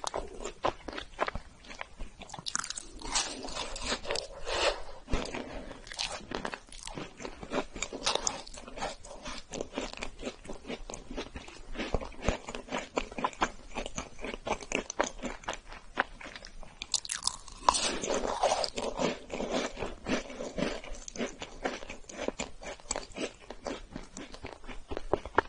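Close-up chewing and crunching of a chocolate-coated biscuit, made of many small crisp crunches and mouth sounds. There are two louder spells of crunching, one a few seconds in and one just after the middle.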